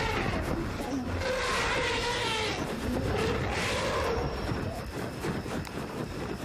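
African elephants and lions calling during a confrontation over a carcass: a run of loud, rough calls, the two strongest about a second and a half and three and a half seconds in.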